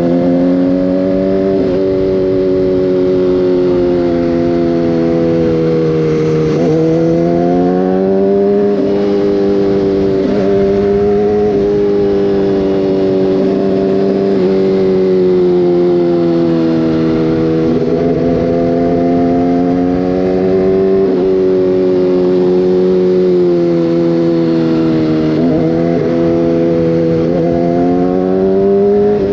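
Motorcycle engine running under way, its note rising and falling with the throttle and broken by several quick gear changes.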